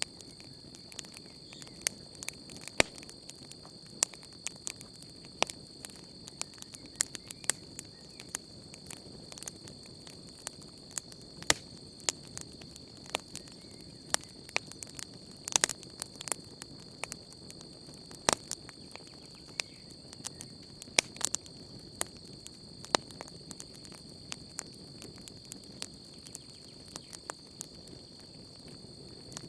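Wood campfire crackling, with frequent irregular sharp pops and snaps over a soft low rush of flame. A steady high trill of crickets runs underneath.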